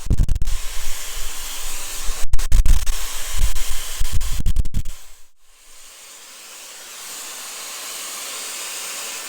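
Dyson hair dryer blowing, its airflow buffeting the microphone with loud rumbling gusts and a few clicks for about the first five seconds, then settling into a steady hiss.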